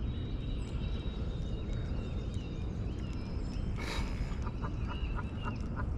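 Birds calling around the pond over a steady low rumble, with a short sharp noise about four seconds in followed by a quick run of short, evenly spaced calls.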